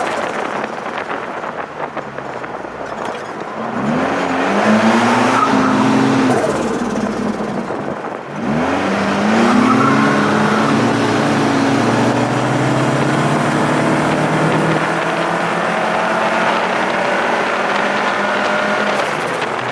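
Twin-engine Mini accelerating hard on a hill climb. The engine note rises from about four seconds in, drops briefly at a gear change about eight seconds in, then climbs again and holds high at full throttle.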